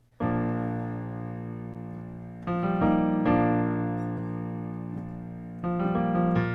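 Piano playing slow sustained chords, struck about a quarter second in and again near the middle and near the end, each left to ring and fade.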